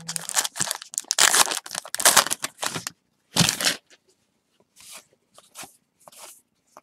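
A foil trading-card pack wrapper being torn open and crinkled in the hands, in dense rustling bursts for about three seconds, then one more short crackle and fainter rustles as the cards are handled.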